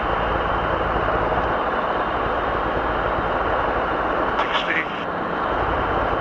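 Robinson R22 helicopter in flight heard from inside the cabin: a steady drone of the piston engine and rotors with a fast low pulsing. A brief crackle about four and a half seconds in.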